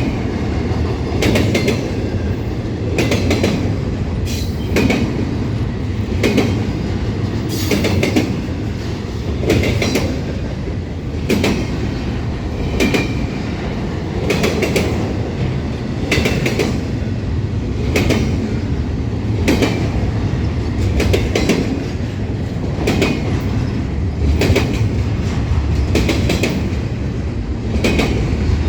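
Train cars rolling past over the rails with a steady rumble, their wheels clicking over rail joints in regular pairs about every second and a half.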